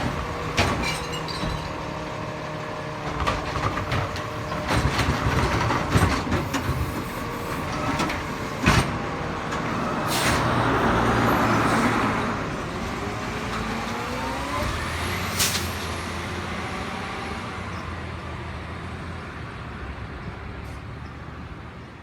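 Diesel McNeilus Zero Radius garbage truck running, with scattered clanks and a hiss of air released about halfway through. The engine then rises in pitch as it revs, and the sound fades near the end.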